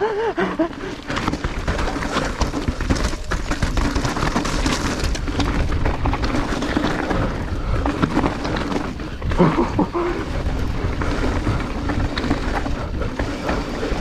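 Mountain bike descending a rough dirt downhill trail: continuous wind and tyre noise with frequent knocks and rattles from the bike over the bumps.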